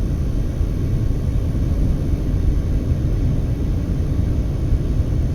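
Steady low rumble of a car driving on a very windy day, with wind buffeting and road noise.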